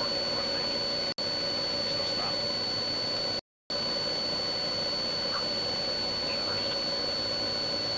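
Steady engine, road and wind noise inside a police patrol car driving at high speed, with a steady high whine over it. The sound cuts out briefly twice.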